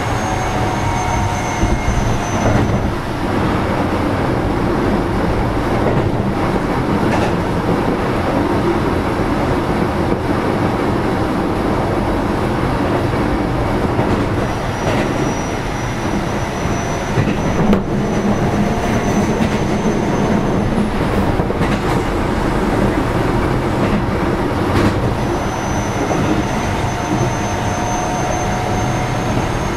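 Keio 7000-series electric train running at speed, heard from inside the passenger car: a steady rumble of wheels on rail with occasional clicks and thin high tones that fade in and out, bending a little in pitch.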